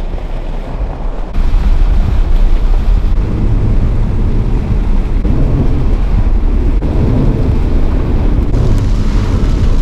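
Heavy thunderstorm rain pounding on a vehicle, with wind buffeting the microphone and a steady low rumble; it gets suddenly louder about a second and a half in.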